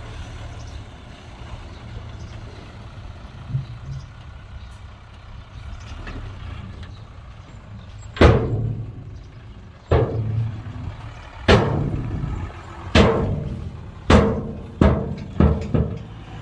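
Heavy diesel machinery engine running steadily at a low pitch. About halfway in, a series of eight loud bangs starts, coming closer together near the end.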